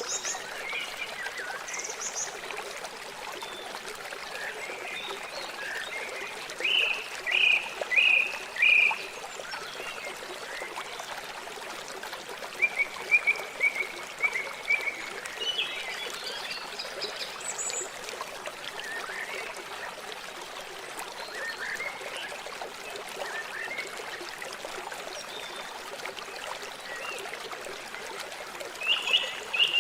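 River water flowing steadily, with runs of short chirping animal calls over it, three or four at a time, several times.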